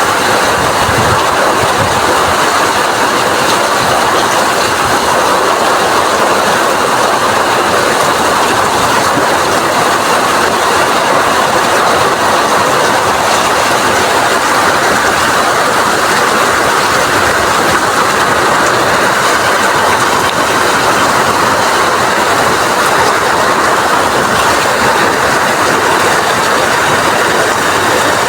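Rain falling in strong wind: a loud, steady, dense hiss that holds without a break.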